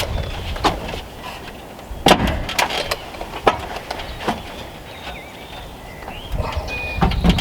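Scattered knocks and clicks, a few at a time, over a low rumble of wind on the microphone.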